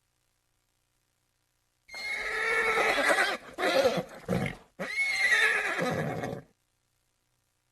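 A horse whinnying, starting about two seconds in, in three bursts with short breaks between them, then stopping.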